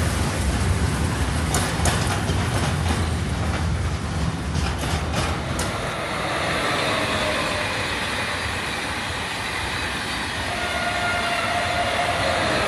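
Train passing on the railway: a heavy low rumble with wheels clicking over rail joints for the first half. The rumble then eases into a quieter rolling sound, with a faint steady whine near the end.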